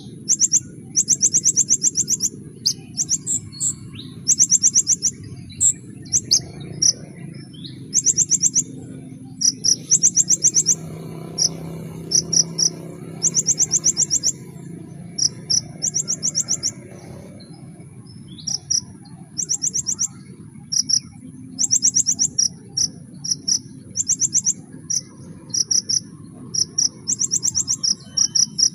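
A sunbird singing in bursts of rapid, high-pitched repeated notes. Each burst is a fast trill lasting up to about a second, and the bursts come again and again with short gaps between them. A steady high hiss runs underneath.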